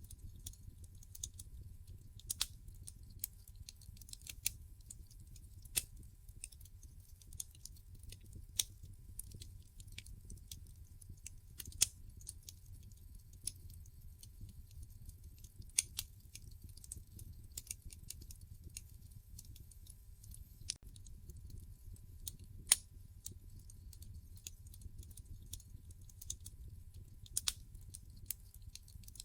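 Wood logs burning in a fireplace, crackling: irregular sharp snaps and pops over a low, steady rumble, with a handful of louder pops scattered through.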